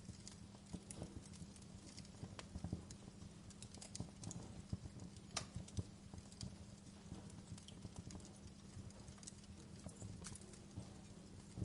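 Wood fire crackling in a fireplace: irregular small pops and snaps, with a sharper pop about five and a half seconds in, over a low steady background noise.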